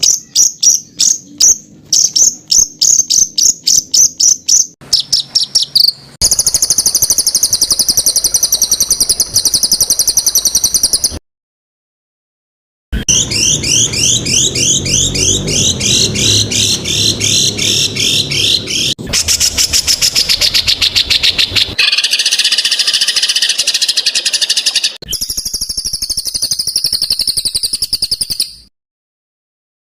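Songbird calls spliced into a training track for cage birds: rapid-fire strings of high, harsh repeated notes and dense trills. The clips change abruptly several times, with a second or so of silence about eleven seconds in and again near the end.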